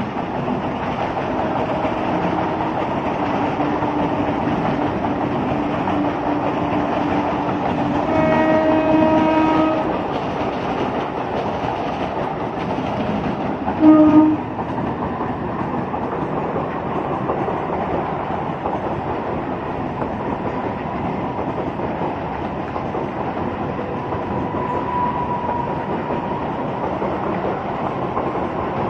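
Electric suburban local trains running past with a steady rumble of wheels on rails. A train horn sounds for about two seconds roughly a third of the way in, and gives a short blast about halfway through.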